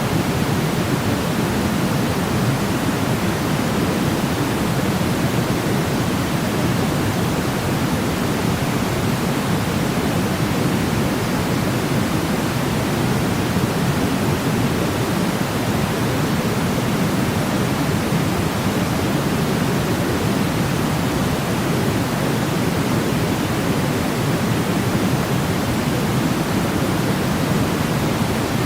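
Steady sleep noise: a constant, even hiss weighted toward the low end, like pink noise, with no change in level or pattern.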